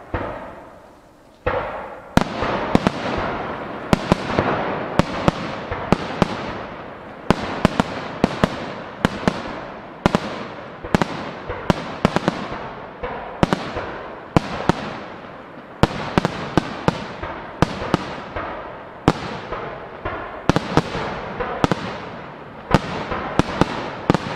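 Starmine fireworks barrage: aerial shells launching and bursting in quick succession. After a single bang, a dense run of sharp reports starts about two seconds in, two or three a second, over a continuous crackle.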